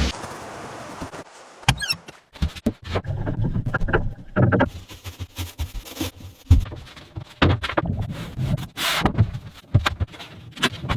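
A series of irregular knocks, thuds and clatter, with a short hiss about nine seconds in.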